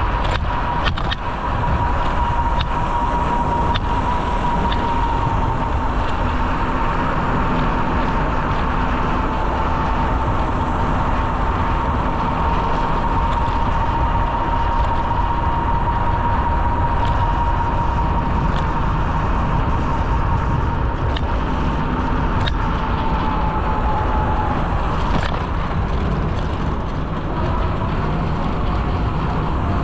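Steady rumble of tyres and wind while riding a bicycle on a paved trail, with a steady high hum that drops slightly and stops about 25 seconds in, and occasional light clicks and rattles.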